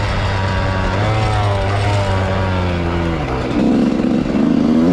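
Motocross bike engine running at steady revs, then dropping off about three seconds in and revving up sharply again near the end.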